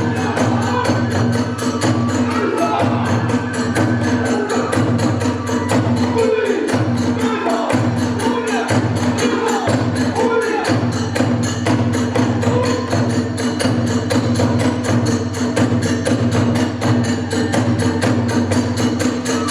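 Kagura hayashi ensemble playing a fast, driving rhythm: drums and hand cymbals beaten in rapid, even strokes, with a bamboo flute melody wavering above them.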